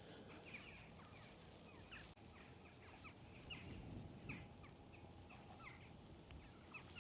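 Faint distant birds calling, a scatter of short quick chirps throughout, over a light low hush of wind.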